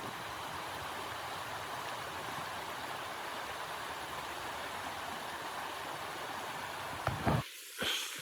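Steady rushing blizzard wind, then a couple of loud knocks near the end as the background noise cuts out abruptly.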